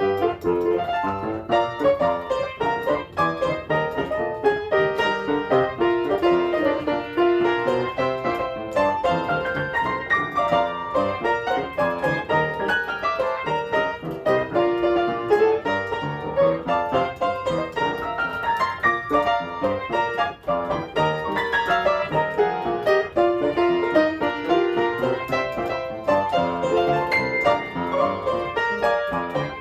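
Solo piano playing an old gospel tune, with steady chords and melody throughout.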